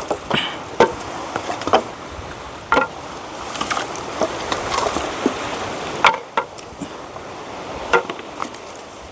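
Pieces of dry firewood knocking and cracking against each other as they are gathered by hand: a handful of irregular sharp knocks, one each second or few seconds.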